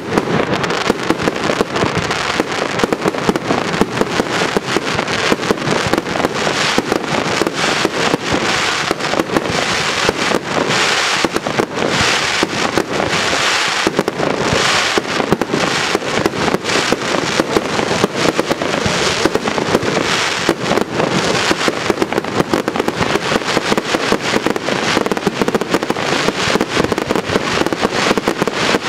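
Fireworks display in a dense, continuous barrage of rapid, overlapping bangs and crackling from aerial shells, with no pause.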